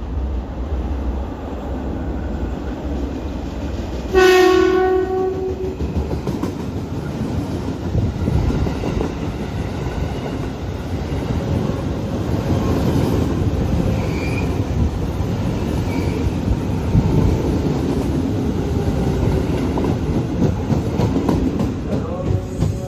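A train running through the station: one horn blast lasting about two seconds, about four seconds in, over a steady rumble and wheel clatter that continue throughout.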